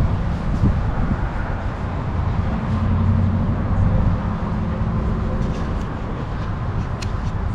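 A motor vehicle's engine running with a steady low rumble, its engine note swelling for a couple of seconds in the middle.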